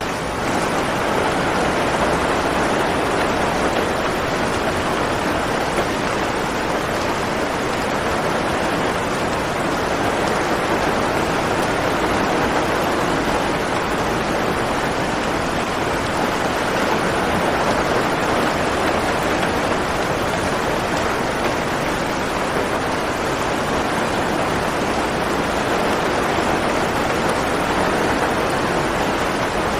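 Steady heavy rain falling, an even continuous hiss with no distinct drops or thunder.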